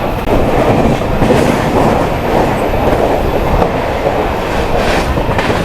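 Passenger train running on the rails: a steady rumble, with sharper clacks of the wheels about a second in and again near the end.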